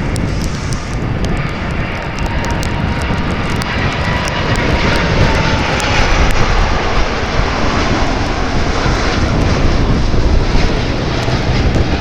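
Heavy jet airliner's engines at takeoff power: a steady roar with a whine that glides down in pitch over the first few seconds as it passes, the roar growing louder in the second half.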